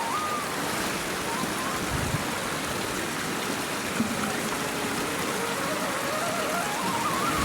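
Steady rushing noise of water, like rain or a stream, with no breaks. A faint thin tone runs through it, sliding slowly down in pitch and rising again near the end.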